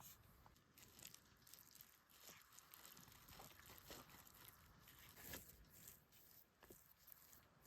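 Near silence with faint scattered small clicks and crackles.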